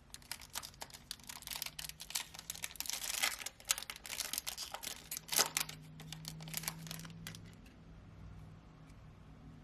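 Foil wrapper of a Topps trading card pack crinkling, with cards being handled: a dense run of crackles and clicks that thins out about seven seconds in.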